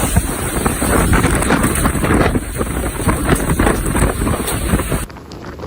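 Strong storm wind buffeting the microphone, mixed with rain and many small crackles and knocks. About five seconds in, the sound cuts to a quieter stretch of wind noise.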